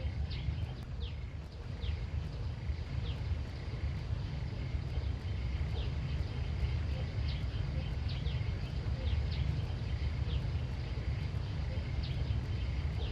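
Outdoor rural ambience: a steady low rumble under short, high, falling chirps that repeat about every second or so, with a faint steady high tone.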